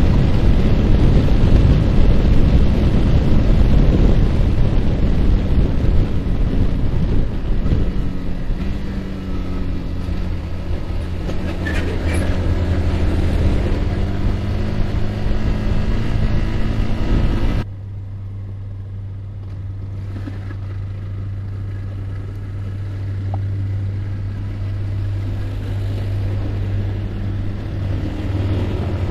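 Yamaha R15 single-cylinder engine running with wind rushing over the microphone, easing off as the bike slows. A little more than halfway through the wind noise cuts off abruptly, leaving the engine idling low and steady.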